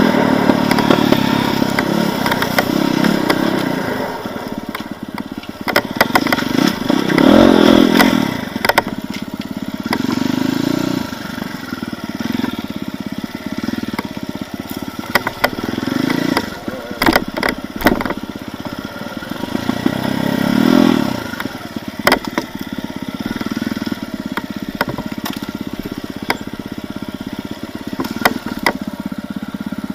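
Enduro motorcycle engine revving up and down in repeated surges as the bike is ridden over rough forest trail, with scattered knocks, clatter and scraping from the bike working over the ground.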